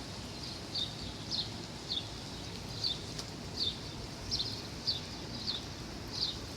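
A bird calling over and over in short, high chirps that drop in pitch, about one or two a second, over a steady low rumble of background noise.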